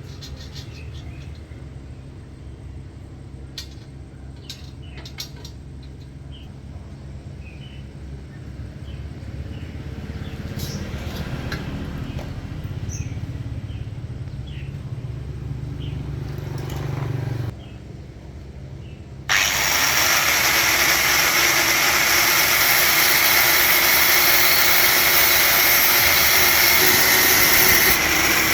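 A steady low mechanical hum, like a small motor or engine running, with faint bird chirps and a few clicks over it. About two thirds in, the hum stops. Moments later a loud, steady rushing noise starts suddenly.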